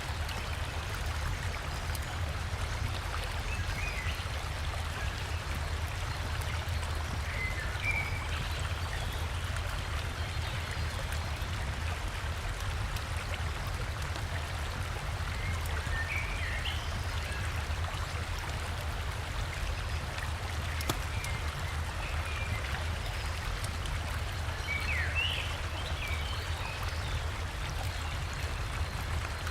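River water and a small waterfall flowing steadily, with a low rumble underneath. A few short bird chirps come now and then over the water.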